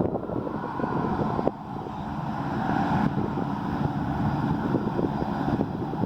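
Wind buffeting the microphone over a steady mechanical rushing that swells a little about two to three seconds in.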